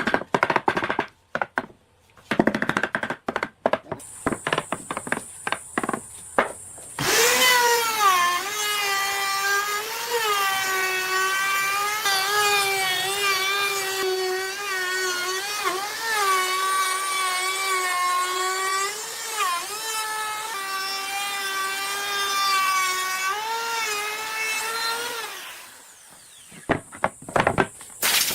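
Quick sharp knocks and taps, then an electric power tool's motor running with a steady whine for about eighteen seconds, its pitch dipping briefly every so often before it winds down. A few more knocks follow near the end.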